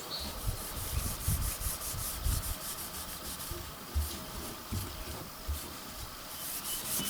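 Quick repeated rubbing strokes on a steel rifle barrel as Oxpho-Blue cold bluing solution is worked into the freshly draw-filed, degreased metal.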